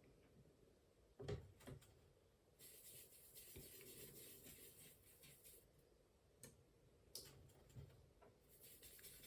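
Near silence, with a few faint scattered taps and light rubbing from a watercolour paintbrush working on paper.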